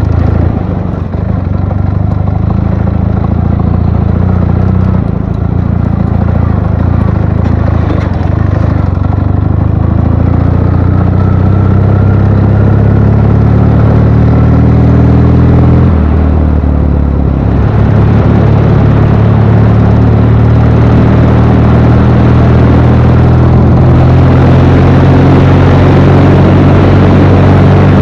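Ural motorcycle's flat-twin (boxer) engine running under way. Its pitch climbs steadily for several seconds about a third of the way in, drops sharply a little past halfway, then picks up again and holds steady to the end.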